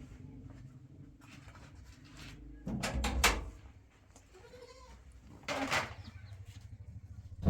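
Livestock bleating a few times, the loudest calls about three seconds in and just before six seconds, over a steady low hum.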